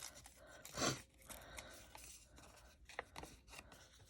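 Paper being worked by hand: one short rip or cut about a second in, then faint rustling and a small click, as a piece of printed paper is trimmed around a flower motif.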